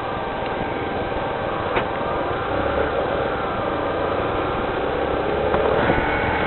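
Rain falling steadily, an even hiss, with a low rumble joining in about two and a half seconds in.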